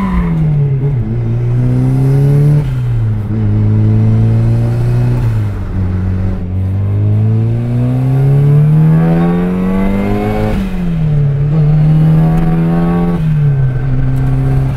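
Turbocharged 1990 Mazda Miata's engine heard from inside the cabin while driving through the gears. The revs climb, drop sharply at each gear change and hold steady between shifts, with one long climb through a gear in the middle.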